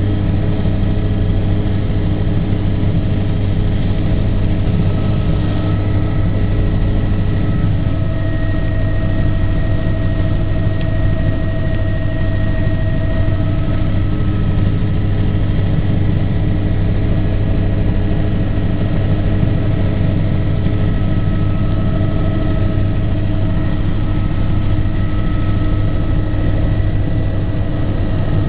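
Aircraft engine running steadily in flight, a loud continuous drone with a strong low hum and a few steady higher tones above it.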